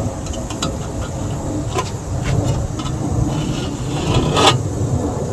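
Metal scribe scratching and clicking across sheet steel in short strokes, with a longer scrape about four seconds in, over a steady low rumble.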